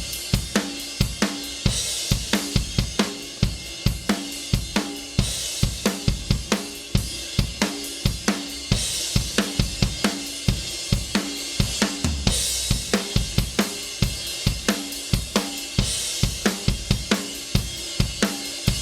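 A mix's drum bus played back on its own: a recorded drum-kit groove of kick, snare and hi-hat, with a bright cymbal wash about every three and a half seconds.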